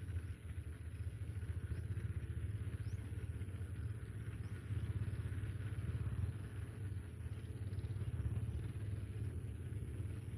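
Steady low outdoor rumble with a thin high whine above it, and a few faint, short high chirps in the first half.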